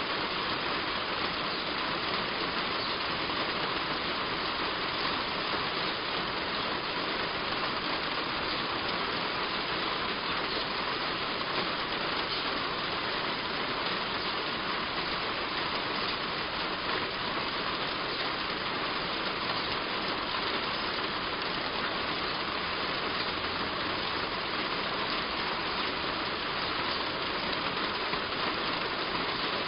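Heavy rain falling on a roof: a dense, steady hiss of drops that holds an even level throughout.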